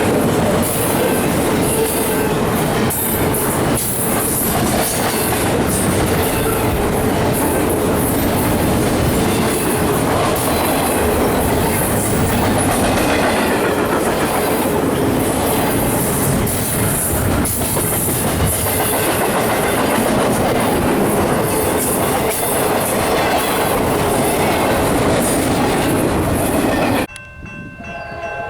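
Freight train cars rolling past at close range, the wheels clacking steadily over the rail joints. Near the end the sound cuts off abruptly and a locomotive horn chord sounds, quieter.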